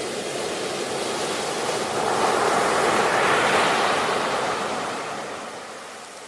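Ocean waves breaking on a shore: a wave swells to its loudest about two to four seconds in, then the wash fades away.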